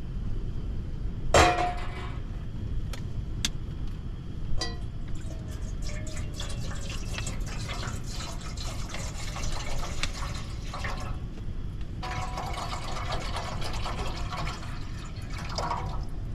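A few sharp knocks of cookware, then water being poured and splashing into a cooking pot to be brought to the boil.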